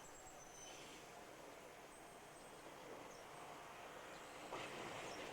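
Quiet outdoor ambience with a few faint, thin high tones. In the last second the noise swells slightly as an Ichibata Electric Railway train starts to be heard approaching.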